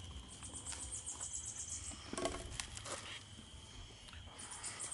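Insects chirping steadily in a high pulsing trill, with a few soft crackles and knocks, the clearest about two seconds in.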